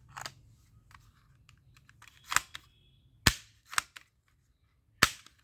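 Toy gun firing: about five sharp cracking shots at uneven intervals, the loudest a little past the middle and near the end.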